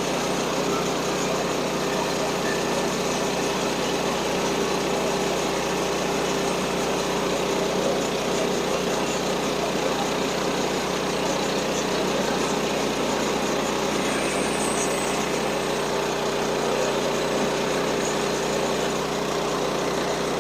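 Small gas engine of a portable bandsaw sawmill running steadily at an even speed.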